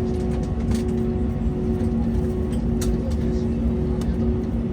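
Cabin noise inside an Airbus A321neo with its Pratt & Whitney PW1100G geared turbofans at low power while taxiing after landing: a steady low rumble with two constant hum tones, and a few faint ticks.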